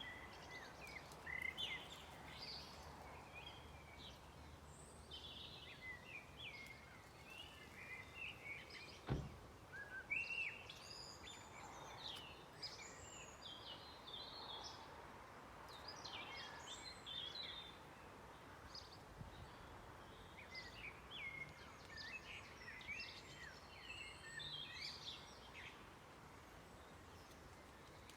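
Several songbirds singing in a faint dusk chorus, short chirps and phrases overlapping throughout. A single sharp click about nine seconds in.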